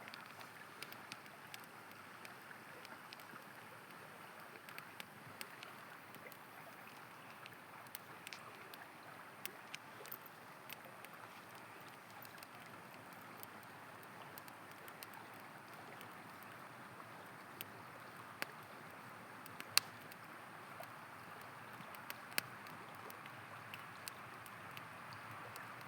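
River water flowing with a steady rush, over a campfire crackling with scattered sharp pops; the loudest pop comes near the end.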